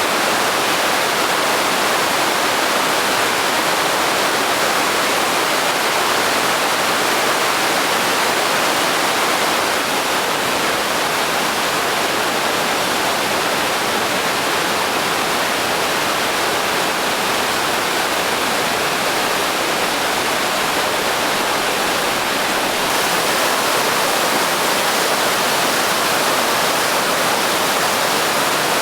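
Naena Falls thundering down in a loud, steady, unbroken rush of water, swollen with May snowmelt.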